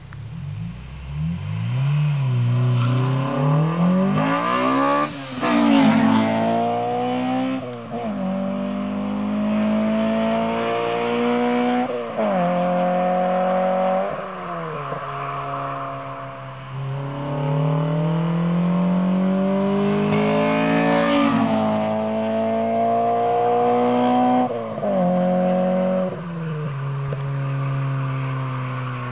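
1999 Honda Integra Type R's 1.8-litre four-cylinder VTEC engine breathing through a Toda header, racing cat and Greddy Ti-C titanium catback, accelerating hard. The revs climb in each gear and drop sharply at each upshift, loudest as the car passes about five seconds in and again around twenty-one seconds.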